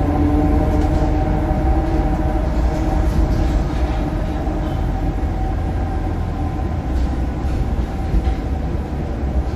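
Scania K230UB bus's DC9 five-cylinder diesel running through its ZF Ecomat automatic gearbox: a deep rumble with a whine on top that fades over the first two or three seconds, leaving a steady rumble.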